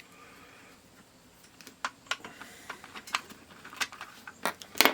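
Plastic clicks and taps from handling a Cen-Tech P37772 digital multimeter as it is tried out after a fuse replacement. The clicks are scattered at first and come closer together near the end, with the loudest pair just before it ends.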